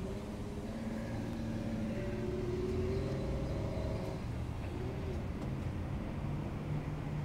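A motor vehicle running, a low rumble with engine tones that shift in pitch over the first few seconds.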